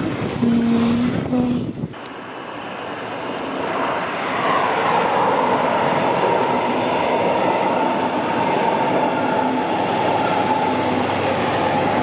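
A red diesel railcar of the Alstom Coradia LINT type passes close for the first two seconds. Then a double-deck regional train runs along the track, its wheel and rail noise swelling and then holding steady, with a high whine starting about four seconds in.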